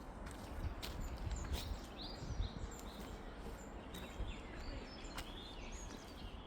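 Small birds chirping in short, high calls, over scattered sharp crunches of footsteps on the forest floor and a steady low rumble.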